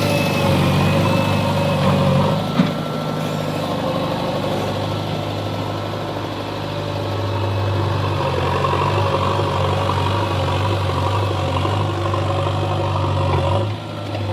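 A heavy diesel engine of farm or construction machinery running steadily at low revs, its low drone easing off about two seconds in and building again partway through, with a single sharp knock near the three-second mark.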